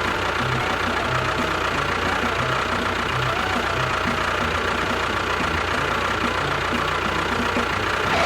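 A small motor running steadily, with a constant high whine and a faint regular knock about twice a second.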